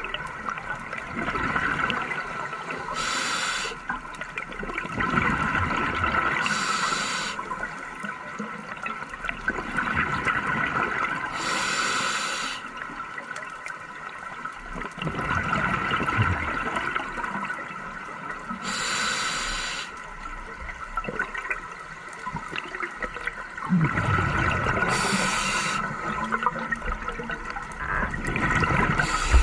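Scuba diver breathing through a regulator underwater, with exhaled bubbles rushing out in a burst about five times, several seconds apart, over a steady watery background.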